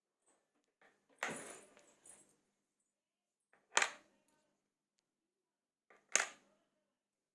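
Jigsaw blades handled and set down one after another on a hard surface: three sharp, light clacks about two and a half seconds apart. The first is followed by a brief rustling scrape.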